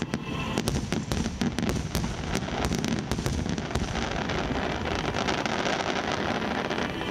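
Aerial fireworks bursting in a rapid barrage: many sharp bangs and crackles over a continuous rumble, the bangs thinning out after about four seconds.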